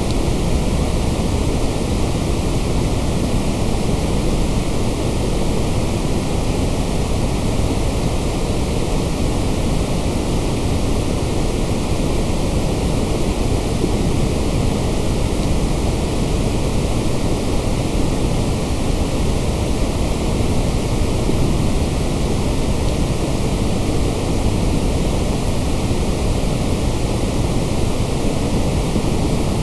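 Generated white noise track: a loud, steady, unchanging rush of noise, fuller in the low end.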